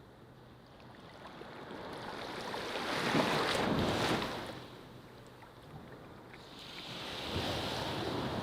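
Ocean waves breaking on a beach: two swells of surf, the first peaking about three to four seconds in and the second near the end, each washing up and falling away.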